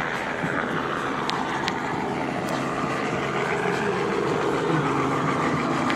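A vehicle engine running steadily, with a few sharp clicks about a second and a half in.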